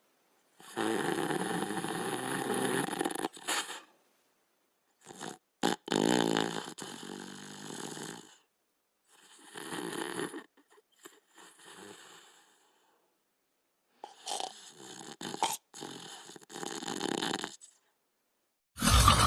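Sleeping dog snoring: a series of long snoring breaths, about six in all, with silent pauses between them and the loudest one starting near the end.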